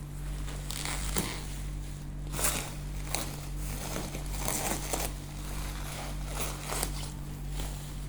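Packaging being handled: wrapping crinkling and rustling in irregular bursts, over a steady low electrical hum.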